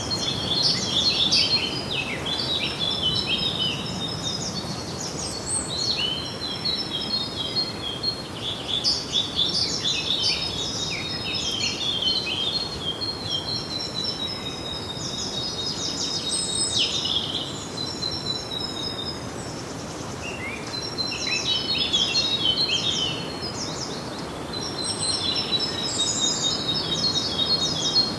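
Songbirds singing: bursts of quick chirps and trills a few seconds long, with brief pauses between them, over a steady background hiss.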